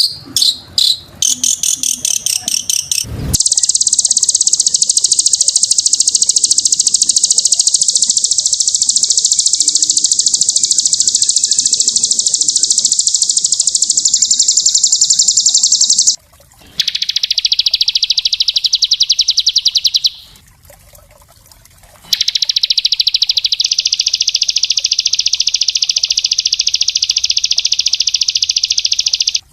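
A small songbird's rapid-fire 'tembakan' trill, used as master song for training other birds. It starts with a quick string of separate high chirps, then runs into long, very fast buzzing trills, broken by two short pauses. The later trills sit a little lower in pitch.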